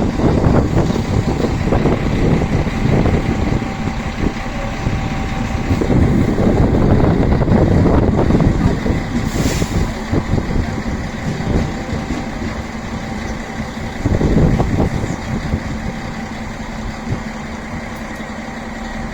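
Train idling at a station platform: a steady mechanical hum with faint held tones over a loud, uneven low rumble from wind buffeting the microphone. A short hiss about halfway through.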